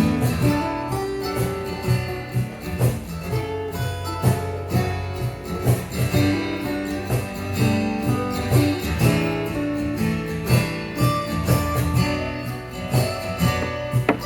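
Live acoustic guitar music: an instrumental break in the song, strummed and plucked notes with no singing.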